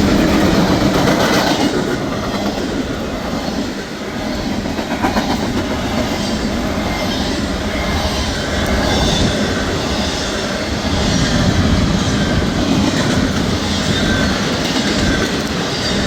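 Freight train cars rolling past, wheels clacking over the rail joints in a steady rhythm of a little more than one beat a second.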